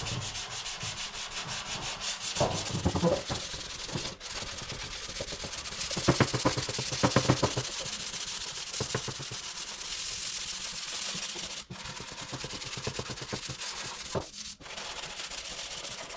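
Sanding of body filler on a car's front wing: abrasive paper rubbing in runs of quick back-and-forth strokes, with a steady hiss and a few sudden breaks.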